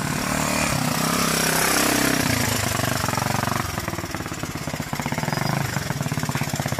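1981 Honda XL125S's single-cylinder four-stroke engine running as the bike rides up close. The revs rise, then drop about two seconds in to a slower, even pulsing beat. It has a rattle on the top end that the owner puts down to a cam chain wanting adjustment.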